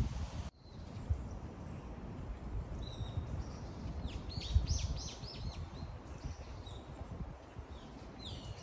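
Wild songbird calling in woodland: a short whistle about three seconds in, then a quick run of falling chirps, and another call near the end, over a low rumble.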